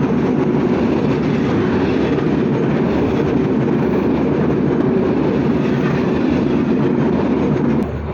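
Passenger train running, a steady loud rumble of wheels and coaches on the rails, cut off suddenly near the end.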